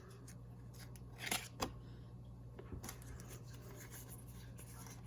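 A few faint, short crinkles and clicks from a Pokémon trading card booster pack being handled, two close together about a second and a half in, over a low steady hum.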